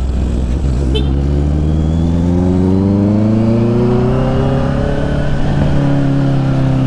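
Honda CB650 motorcycle's inline-four engine pulling under acceleration: its pitch rises steadily for about five seconds, then holds steady.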